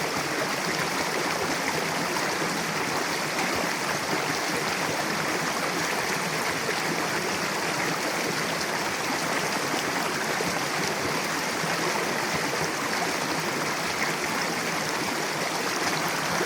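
Mountain river rushing over rocks: a steady, even water noise with no breaks.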